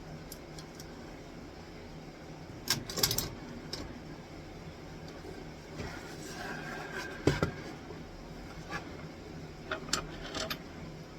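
Hands working on a wooden birdhouse with clamps: scattered knocks and clicks as pieces are handled and set down. There is a small cluster about three seconds in, the loudest single knock a little past seven seconds, and a few light clicks near the end, all over a steady low workshop hum.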